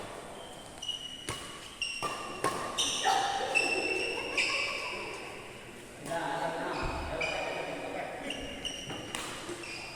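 Sports training in a large hall: repeated sharp impacts, with many short, high squeaks scattered between them, typical of shoes squeaking on a court floor, and voices in the background.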